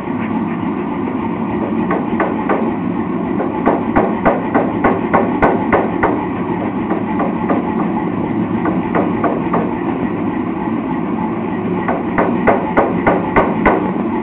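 Blacksmith's hammer striking steel at the anvil in runs of quick, even blows, about three a second, easing off in the middle and picking up again near the end, over a steady rushing background noise.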